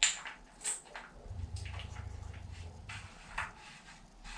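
A few sharp clicks and light taps of a shower hose's metal fitting and plastic handheld shower head being handled while they are lined up to be screwed together.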